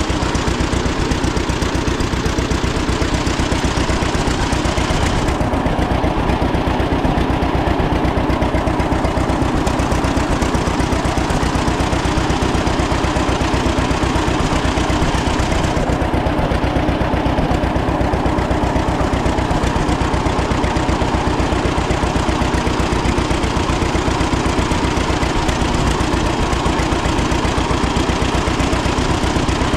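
1936 John Deere Model A's two-cylinder engine running steadily, a fast, even string of exhaust pops.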